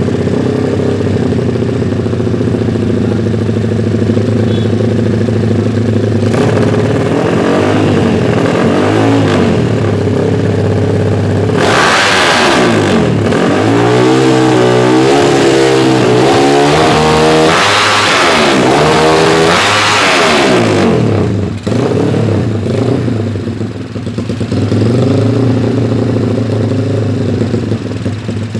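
Yamaha Scorpio Z single-cylinder four-stroke engine breathing through an HNR racing exhaust. It idles steadily, then is revved up and down in repeated throttle blips, hardest from about twelve to twenty seconds in, before settling back to idle with one more short rev near the end.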